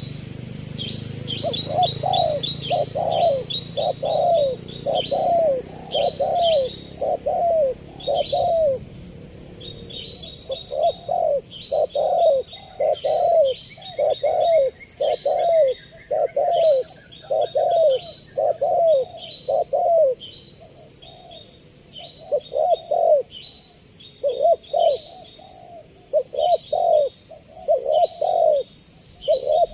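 Spotted dove (tekukur) cooing: runs of short, falling coo notes about one a second, broken by brief pauses, with small birds chirping high and fast behind them.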